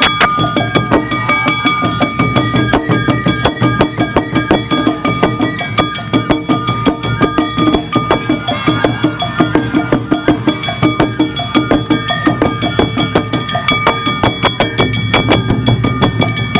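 Awa Odori festival music from a live band: drums and sharp metallic strikes keep a fast, even beat without a break, under steady held high melody notes.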